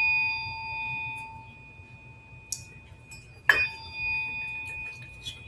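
Tuning fork ringing and fading away. About three and a half seconds in it is struck again: a sharp tap, then a clear ringing tone with high overtones that slowly dies out.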